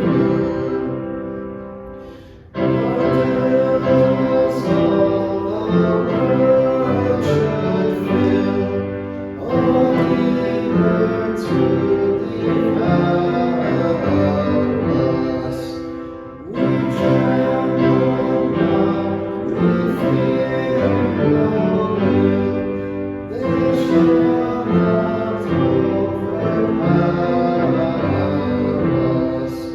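Hymn singing by voices with instrumental accompaniment, in held chords and phrases with short breaks between them.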